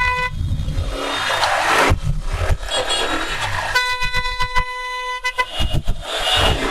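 Vehicle horns honking in stop-and-go traffic: a short toot at the start and a longer steady horn blast of about a second and a half in the middle, over engine rumble and wind noise.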